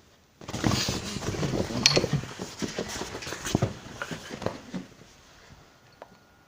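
Close scuffling and rustling from a cat grappling with a hand right by the microphone, with several sharp knocks. It starts suddenly about half a second in and dies away near five seconds.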